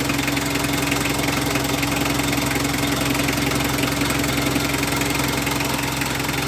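Mitsubishi L300's 4D56 diesel engine idling steadily.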